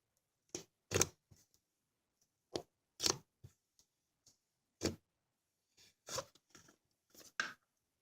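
Hands squishing and pressing cookies-and-cream slime, giving short crackling squishes at irregular gaps, about seven clear ones with fainter crackles between.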